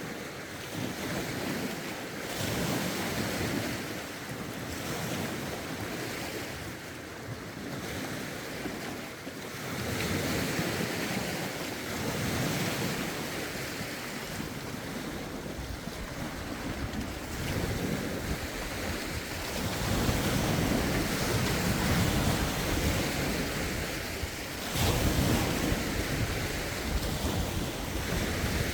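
Lake waves washing in, swelling and fading every few seconds, with gusty wind rumbling on the phone's microphone, strongest near the end.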